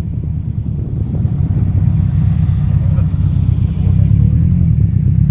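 A car engine and exhaust giving a low, steady drone that gets a little louder as it goes.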